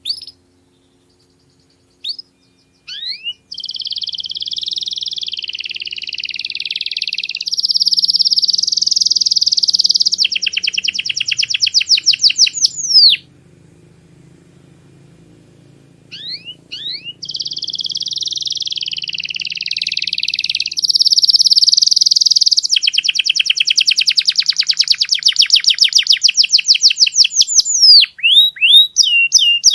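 Canary singing: a few short chirps, then long rolling, warbled phrases that break into fast trills of rapidly repeated notes. Two long song bouts, with a pause of about three seconds between them.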